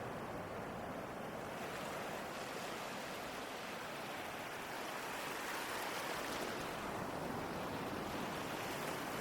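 Ocean surf: a steady wash of waves, the hiss of the spray growing brighter about a second and a half in.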